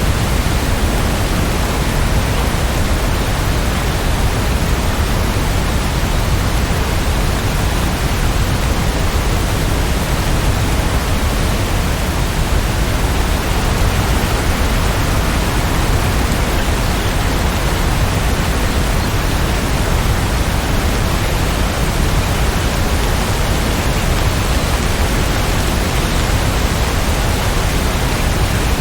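Rain falling steadily as an even, unbroken hiss with no distinct drops or changes.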